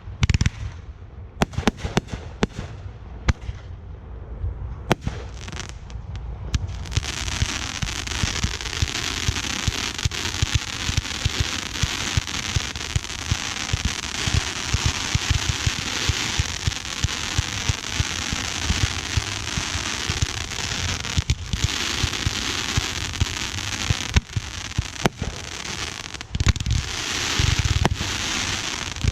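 Aerial fireworks display: separate sharp bangs and booms for the first several seconds, then from about seven seconds in a dense, continuous crackling with sharp reports going off through it.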